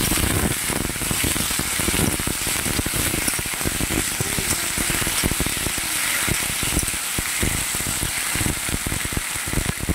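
Boiled taro corms (kochur mukhi) sizzling in hot oil in a kadai, with a steady, dense crackle of spattering.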